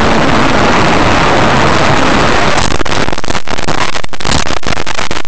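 Loud, steady rushing noise, the kind a moving vehicle's recording picks up. About two and a half seconds in it turns choppy, broken by rapid dropouts.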